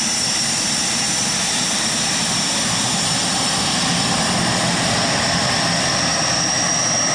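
Aircraft engine running steadily with a high whine over its noise.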